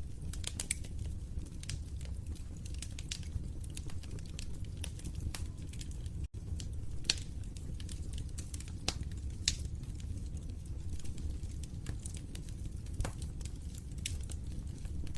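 Wood fire crackling in a fireplace: irregular sharp pops and snaps over a steady low rumble of burning. The sound cuts out for an instant about six seconds in.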